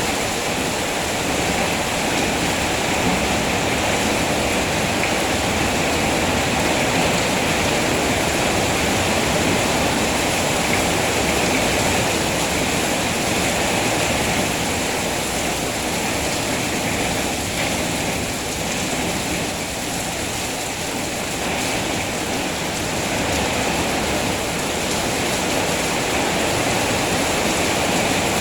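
Steady rain falling, an even rushing hiss with no single drops standing out; it eases a little for a few seconds past the middle.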